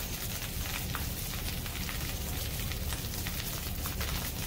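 Rice and egg frying in hot oil in a pan, a steady sizzle full of small crackles, over a steady low hum.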